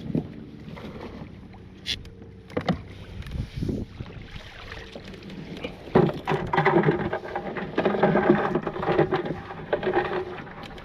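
Knocks and water sounds from a fishing kayak on the water. A few scattered knocks come first, then from just past the middle a busier, louder stretch of splashing and clatter.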